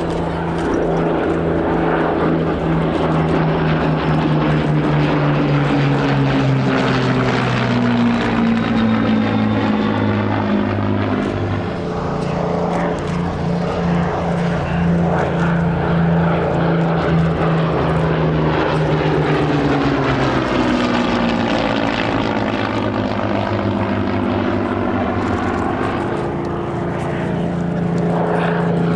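Low-flying propeller aircraft passing overhead, its engine drone dropping in pitch as it goes by, twice in succession.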